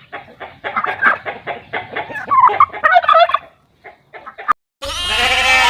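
Turkeys gobbling: rapid rattling calls, one after another, for about three and a half seconds, then a short lull with a few clicks. Near the end the sound cuts suddenly to a loud bleating animal whose calls slide in pitch.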